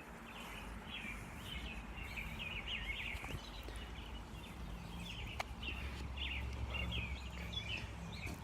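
Small birds chirping over and over, with a low steady rumble underneath.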